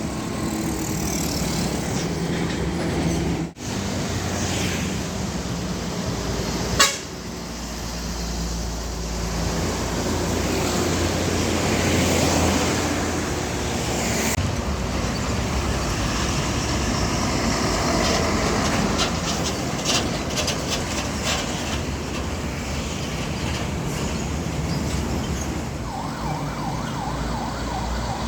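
Heavy diesel trucks running and passing on a road, a steady low engine drone with traffic noise, broken twice by abrupt cuts between clips. A wavering tone joins near the end.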